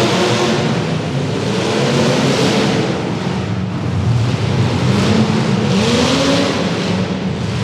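Demolition derby car engines revving, their pitch rising and falling again and again as the cars accelerate, with a few rising sweeps near the end.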